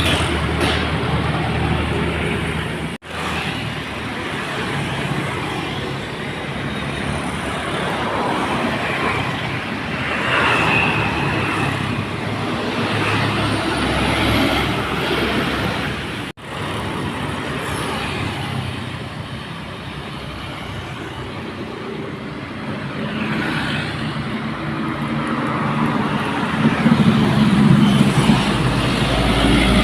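Heavily loaded dump trucks' diesel engines running as they pass, amid road traffic noise. The sound drops out sharply twice, about three seconds in and a little past halfway, and a deep engine grows louder near the end.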